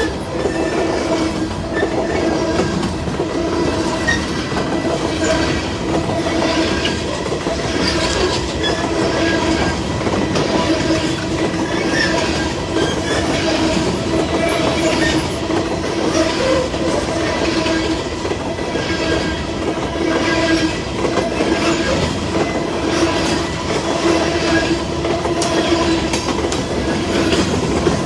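Empty coal train cars rolling steadily past, wheels clacking over the rail joints, with a steady ringing tone from the wheels on the rail.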